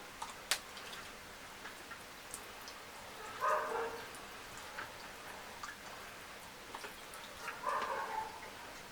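Chewing and lip-smacking of someone eating, heard as scattered sharp mouth clicks, with a short pitched animal call twice, about four seconds apart.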